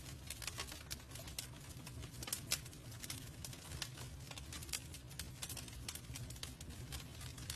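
Wood fire burning: irregular sharp crackles and pops, several a second, over a low steady rumble of the flames.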